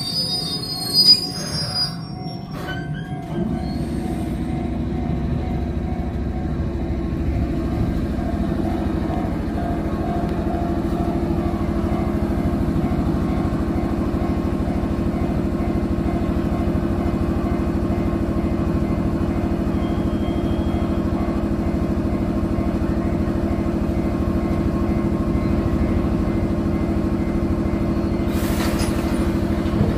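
JR 205-series electric train running, a steady humming rumble that sets in about three seconds in and slowly builds. A few clicks and a short high tone come just before it.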